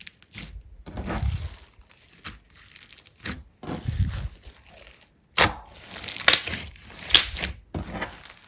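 Slime being squeezed and pressed: two longer squishy swells about one and four seconds in, then a string of sharp pops and crackles in the second half.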